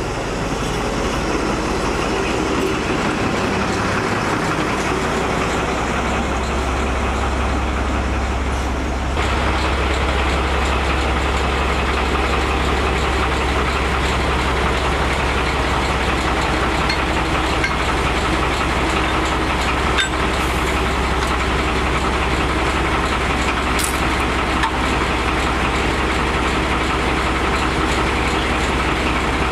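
Diesel-hydraulic narrow-gauge locomotive L45H running with a steady low engine drone under general train noise.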